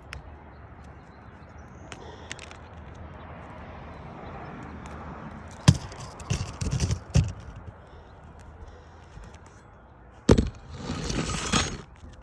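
A few sharp knocks about the middle and one more near the end, followed by a couple of seconds of scraping crackle: hand work on a brittle three-tab asphalt roof shingle.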